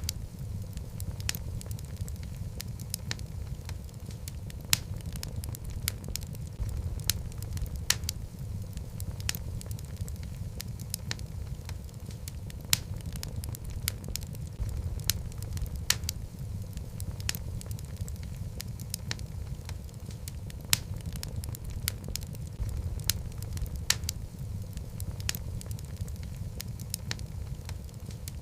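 Wood fire burning in a fireplace: a steady low rumble of the flames with frequent, irregular sharp crackles and pops from the logs.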